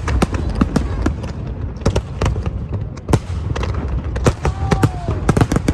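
Fireworks display going off: a rapid, irregular run of sharp bangs and pops, several a second, over a steady low rumble from the bursts.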